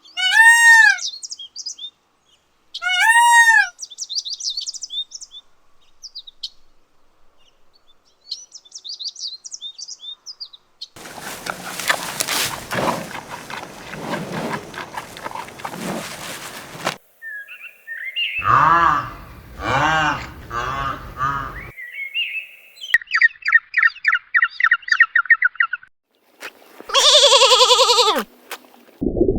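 A string of different animal calls, mostly bird calls: loud arched squawks at the start, softer chirps, a noisy stretch, repeated calls, a fast trill and a last loud call near the end.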